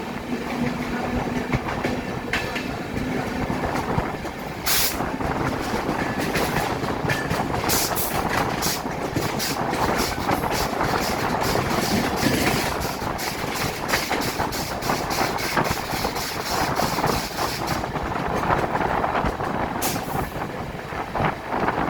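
Train running on the rails: a steady rumble with a rapid run of wheel clicks over rail joints from about five seconds in until near the end.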